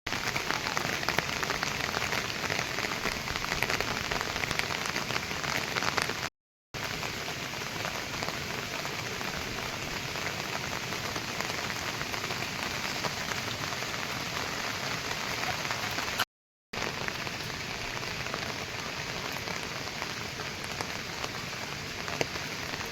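Steady rain falling, a dense patter of drops. The sound drops out to silence twice, briefly, about six and sixteen seconds in.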